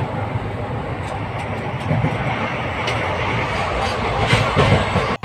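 Moving passenger train heard from inside the carriage: a steady loud rumble of wheels on the rails with a few sharp clacks, cutting off suddenly near the end.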